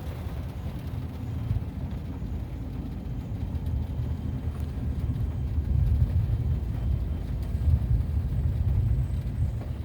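Freight train rolling past, a steady low rumble that grows louder about six seconds in and stays strong to near the end.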